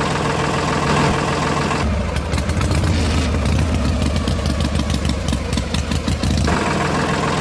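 An engine running steadily, then for a few seconds in the middle a heavier, faster chugging with rapid clicking before it settles back to the steadier running.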